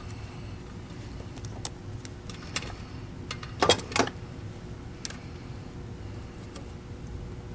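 Light clicks and small metallic clinks from hands working with parts and tools, scattered irregularly, with two louder knocks close together a little past the middle.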